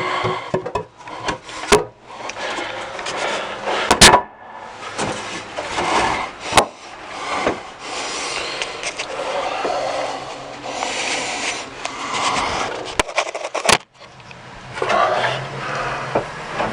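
Irregular rubbing and scraping in uneven strokes, broken by a few sharp clicks or knocks.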